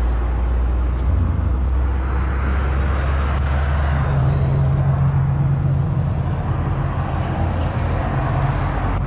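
A motor vehicle engine running steadily, a low hum that shifts in pitch about a second in and again about four seconds in.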